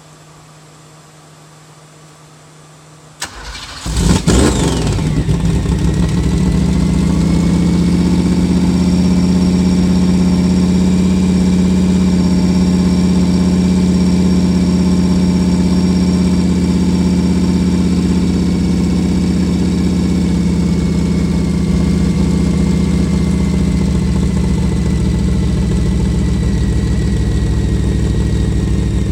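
Studebaker drag engine with electronic fuel injection starting about three seconds in: a click, a brief crank, then it catches with a quick rev and settles into a loud, steady idle.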